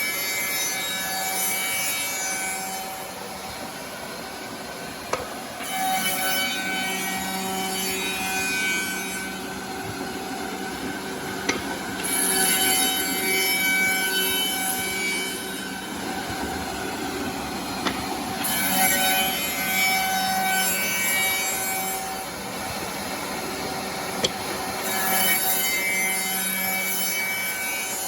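Automatic CNC double-end tenoning machine cutting wood: its motors give a steady whine, and about every six seconds a workpiece passes the cutters, each pass a two-to-three-second burst of cutting noise, five times in all.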